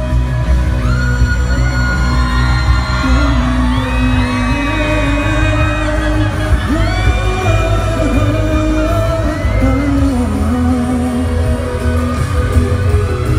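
Live pop song played by a band with heavy bass, and a voice singing long held notes that glide between pitches.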